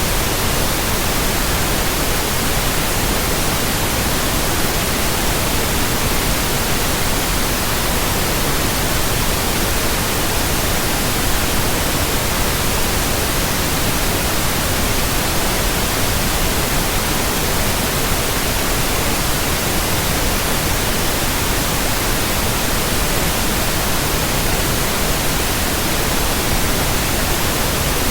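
Pure white noise: a steady, even hiss across all pitches, unchanging throughout.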